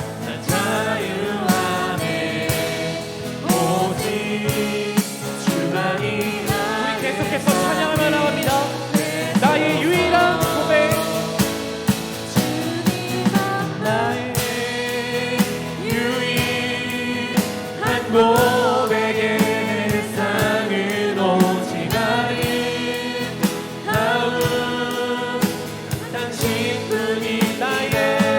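Worship song sung by a group of voices with instrumental accompaniment.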